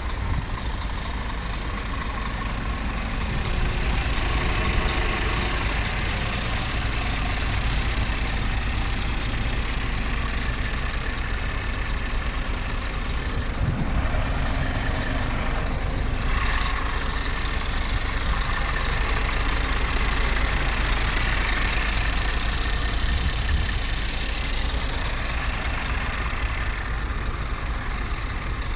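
Scania R480 truck's diesel engine idling steadily.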